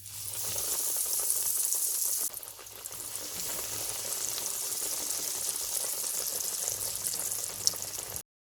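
Breadcrumb-coated chicken bread patties sizzling as they fry in hot oil: a steady hiss with fine crackles. It drops briefly a little after two seconds and cuts off abruptly near the end.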